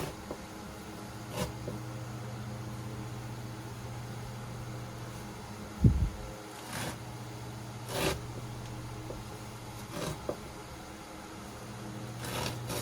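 A steady low mechanical hum, with scattered short rustles and knocks and one louder low thump about six seconds in.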